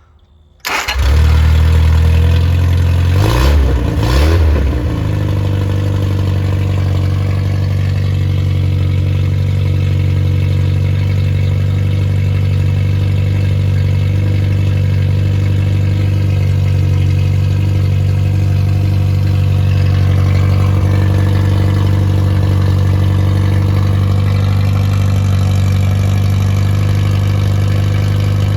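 Freshly rebuilt Triumph Spitfire 1300 (1296 cc) four-cylinder engine starting up about a second in, its revs rising and falling for a few seconds, then settling into a steady idle. A new engine being run in, with a 270-duration cam and a shaved head.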